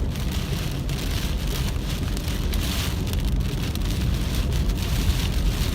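Heavy rain pelting a car, heard from inside it, over a steady low rumble of the car on a wet road.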